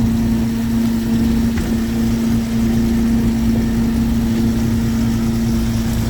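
A small fishing boat's engine running steadily with a constant drone.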